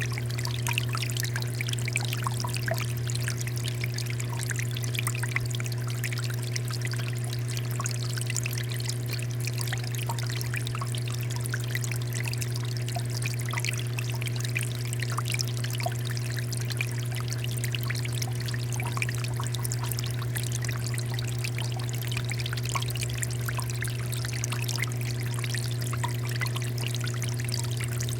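Water fountain flowing steadily, a continuous fine splashing and trickling, over a steady low hum.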